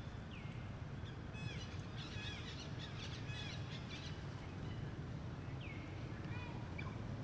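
Birds chirping: short, high calls that slide downward in pitch, a busy run of them in the middle and a few more near the end, over a steady low rumble.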